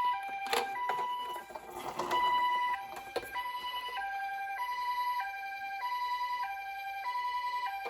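Electronic two-tone Japanese ambulance siren from a toy ambulance's sound unit, alternating "pee-paw" between a higher and a lower tone about every half second. A few sharp plastic clicks and knocks sound in the first few seconds.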